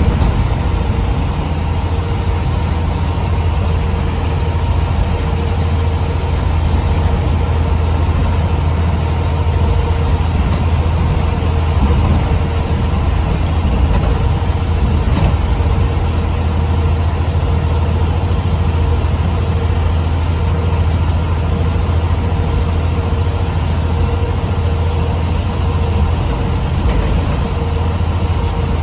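Scania CN94UB OmniCity bus's diesel engine running steadily with a constant low hum, a few faint clicks and rattles around the middle and near the end.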